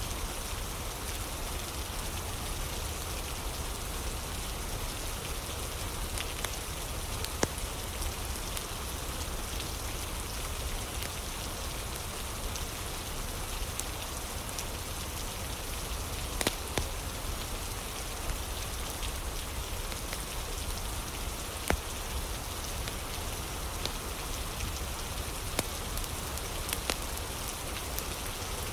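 Steady rain falling, with occasional sharp pops and crackles from a wood fire.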